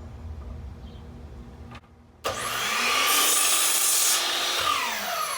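Miter saw started about two seconds in: the motor whines up in pitch, the blade cuts through a thin strip of 2x4 pine, and the motor winds down falling in pitch after the trigger is released near the end.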